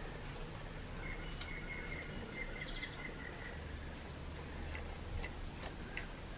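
Faint birdsong: a trill of rapid repeated notes and a few chirps, over a low steady hum, with a few light clicks in the second half.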